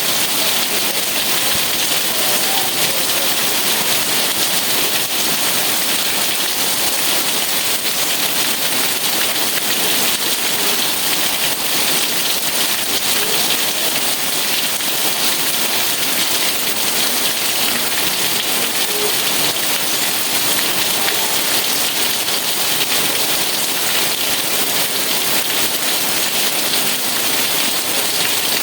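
Steady rain falling: a dense, even hiss of many drops that doesn't change.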